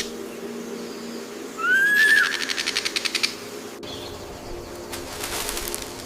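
Bird calls: a short whistle that rises and falls, overlapping a fast dry rattling series of ticks, and a fainter rattle near the end.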